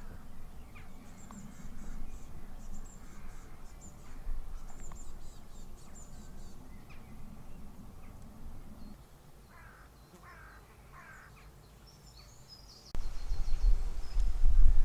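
Wild birds calling: quick high chirps for the first several seconds, then a few harsh, crow-like caws. Near the end a loud low rumble cuts in suddenly.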